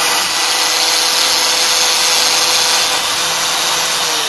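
Electric grinder's brushed motor running at full speed with a steady high whine, on a newly replaced armature bearing: it spins freely and evenly, now fine after jamming on the broken bearing. Just after four seconds it is switched off and the whine starts to fall as it winds down.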